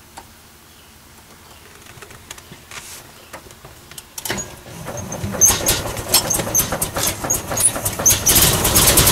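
1916 Dodge Brothers touring car's four-cylinder engine being cranked on its starter/generator and sputtering with irregular pops, catching and beginning to run near the end. This is its first start after years in storage.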